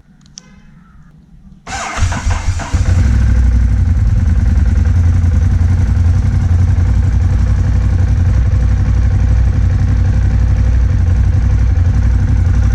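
Ducati Monster 821's liquid-cooled 821cc L-twin, on its stock exhaust, cranked by the electric starter a little under two seconds in; it catches about a second later and settles into a loud, steady idle.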